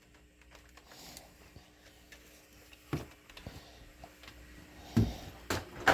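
A few scattered knocks and thumps of things being handled and moved, the loudest about five seconds in and another at the very end, over a faint steady hum.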